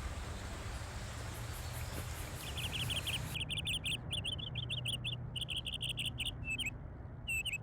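Small bird singing in quick groups of short, high chirps, some ending in a falling note, starting about two and a half seconds in, over a low steady rumble. The background hiss drops away abruptly about three and a half seconds in.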